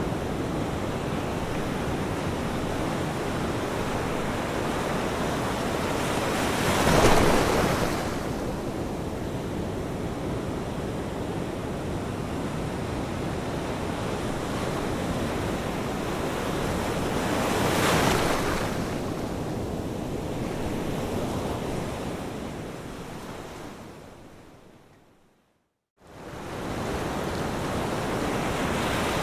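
Ocean surf: a steady wash of waves, with two louder breakers swelling and falling away about 7 and 18 seconds in. Near the end the sound fades out to silence for about a second, then comes straight back.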